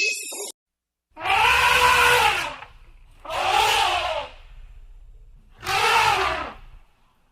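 An animal calling three times, each call about a second long, rising and then falling in pitch.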